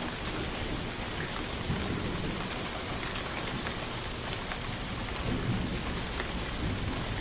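Steady, dense rainfall hiss with a few brief low swells underneath.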